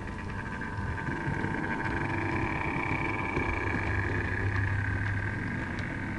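OO gauge model diesel locomotive running along the track: a steady motor whine and hum with faint ticks, growing louder through the middle as it passes close, then easing off.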